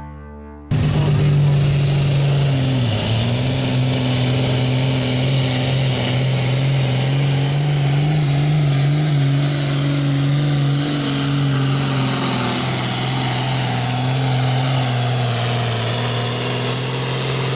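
A modified diesel hot farm pulling tractor running flat out under load on a pull. It cuts in suddenly just after the start, dips briefly in pitch about two seconds later as the sled bites, then holds a steady high pitch.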